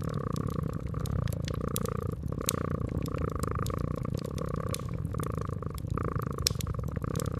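A cat purring steadily, swelling and easing every second or two, with a wood fire crackling in sharp clicks and pops several times a second.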